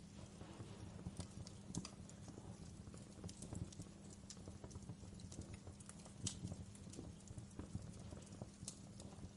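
Wood fire crackling in a fireplace: irregular sharp pops and snaps over a soft low rumble of burning, one louder pop about six seconds in.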